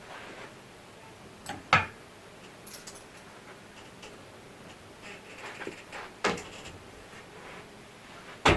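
Sparse light clicks and knocks of household things being handled in a small room, with a louder knock near the end.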